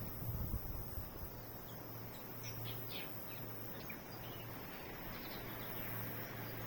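Faint tui calls: a few short, high notes about two and a half to three seconds in, over steady outdoor background noise with a low hum.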